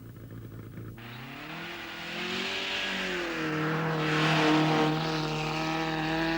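Car engine accelerating: its note rises about a second in, wavers, then holds steady and grows louder toward the middle.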